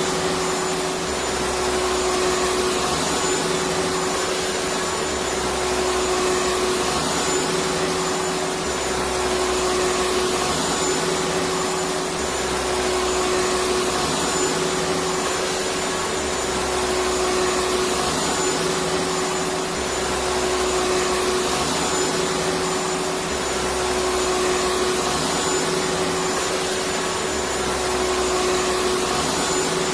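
Electric vacuum cleaner running steadily: a constant motor hum with a gentle rise and fall in loudness every few seconds.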